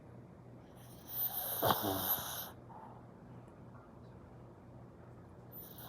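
A dog snoring in its sleep: one long snore about a second in, and the next one starting at the very end.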